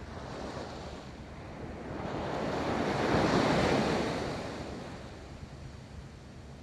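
Ocean waves breaking and rolling onto a beach: one wave swells up to a crash about halfway through and washes out, over a low rumble of surf.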